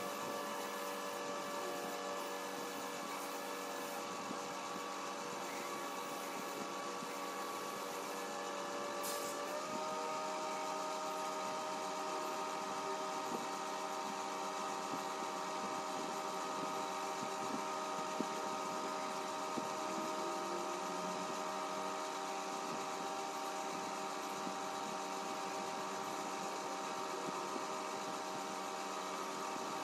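A small electric motor running steadily with a humming drone; about ten seconds in its pitch steps to a new steady note. A few light clicks sound over it.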